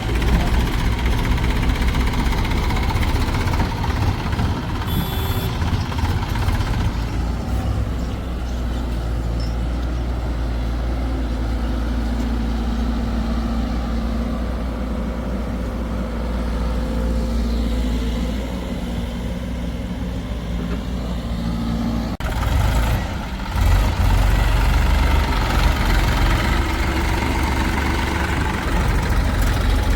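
Heavy diesel engines of a backhoe loader and tractors running steadily. About 22 seconds in the sound breaks off abruptly and comes back louder.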